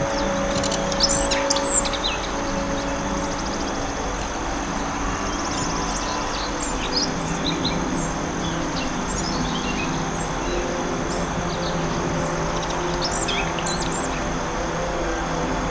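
Songbirds chirping and twittering over a steady hiss of forest ambience, with the loudest run of chirps about a second in and another near the end.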